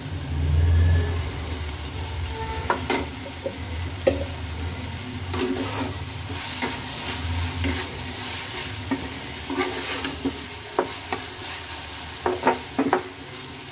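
Spatula stirring and scraping spinach in a kadai, with irregular knocks of the spatula against the pan over a light sizzle as ghee heats in with the greens.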